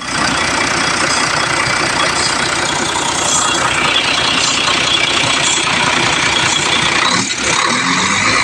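Isuzu 6WF1 six-cylinder truck diesel engine running with a steady diesel clatter. Near the end the sound thins out and becomes less even.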